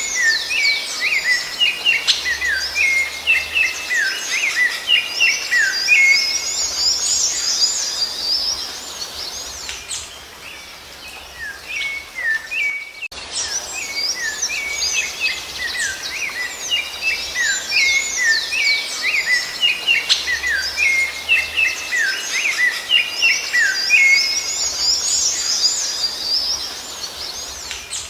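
Rufous-bellied thrush (sabiá-laranjeira) singing: quick runs of whistled, sweeping notes, thinning out briefly before the same passage of song plays again after a short break about halfway through.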